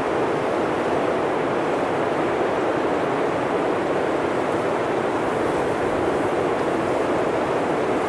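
Blizzard wind blowing steadily: an even, unbroken rushing noise with no gusts or pauses.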